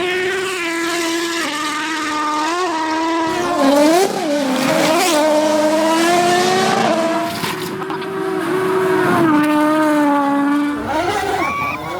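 Rally car engine running at high revs, its pitch dipping and jumping back up several times as the car is driven hard.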